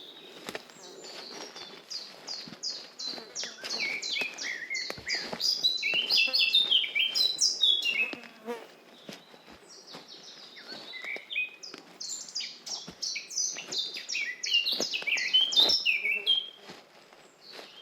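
A songbird singing two long phrases of rapid, high notes, each several seconds long, with a short pause between them. Soft footsteps on a forest path sound under the song.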